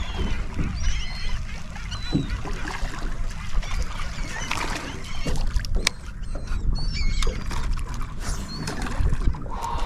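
Seabirds feeding over the bay, giving scattered short, high calls over a steady low rumble of wind and water against the boat, with a few sharp knocks.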